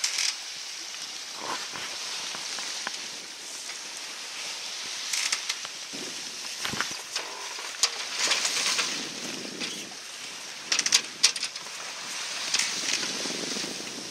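Wind and water noise aboard a sailboat under way, as a steady hiss with swells, broken by a few sharp clicks and knocks, several close together about eleven seconds in.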